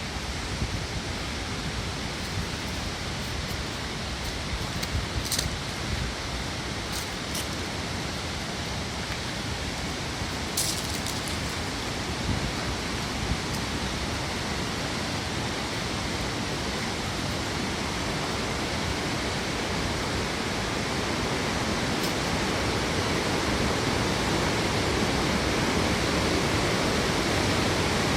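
Steady rushing of a swollen river running high after a typhoon, growing a little louder toward the end, with a few faint clicks in the first half.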